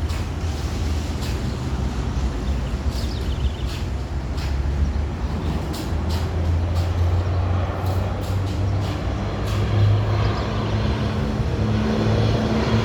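Boeing 737 MAX 8's CFM LEAP-1B turbofan engines on final approach: a low rumble growing gradually louder, with a low steady tone coming in near the end.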